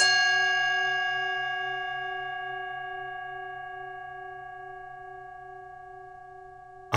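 A singing bowl struck once, ringing out and slowly fading, its tone wavering gently as it dies away.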